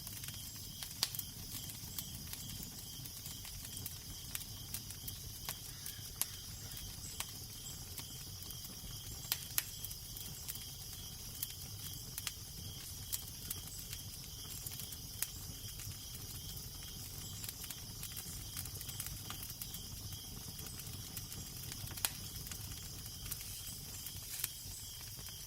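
Fire crackling, with irregular sharp pops and snaps over a steady hiss, and a low, constant rumble of wind beneath.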